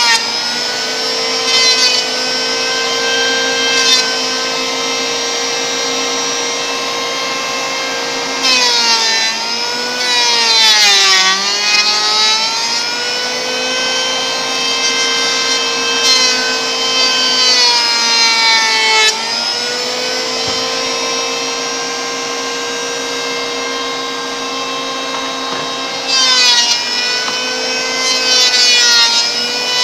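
Electric wood planer running with a steady whine, its pitch sagging three times as the blades bite into a board, each cut bringing a rasping noise of shaving wood.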